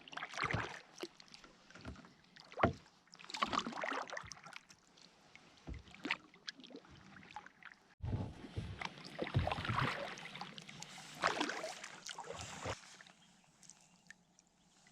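Kayak paddle strokes: the blades dipping into and splashing the water about once a second, with drips between strokes, tailing off near the end.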